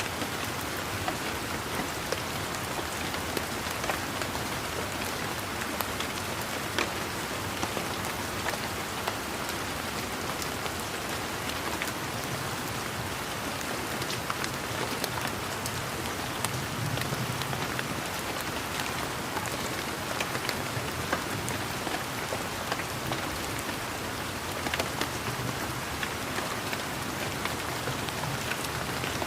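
Steady rain falling in a garden, an even patter with many sharper individual drop splashes scattered through it.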